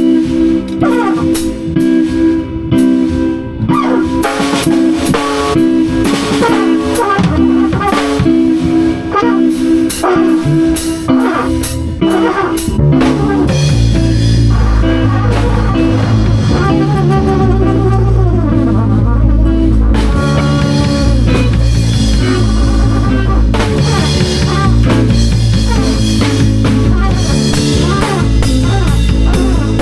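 Live band improvising: drum kit and guitar playing together. A heavy low bass line comes in about halfway through and keeps going.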